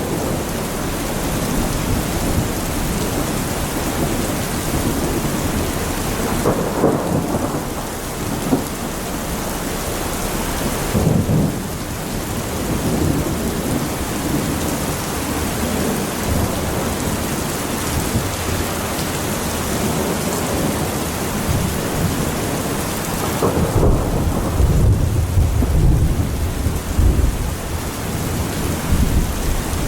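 Heavy rain pouring steadily in a thunderstorm, with thunder rumbling several times. The longest, deepest roll of thunder comes about three-quarters of the way through and lasts several seconds.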